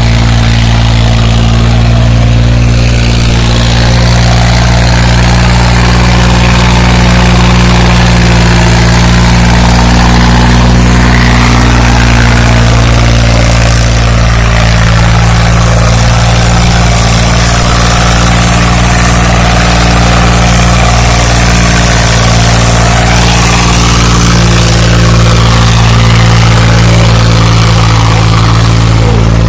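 Sonalika 35 tractor's diesel engine running loud and steady, close by, its note holding an even pitch.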